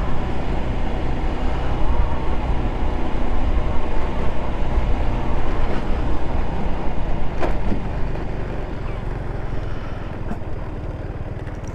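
Ice Bear Hawkeye 150cc scooter's GY6 single-cylinder four-stroke engine running steadily while riding along, the sound easing off somewhat over the last few seconds.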